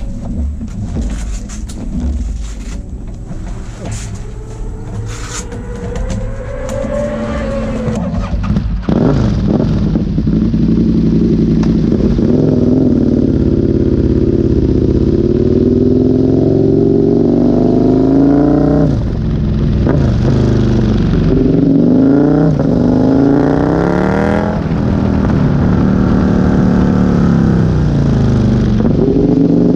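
Aprilia Tuono 1000's V-twin engine heard on board, running gently with some clicks for the first several seconds, then accelerating hard from about nine seconds in. Its pitch climbs through each gear and drops back at the upshifts, several times.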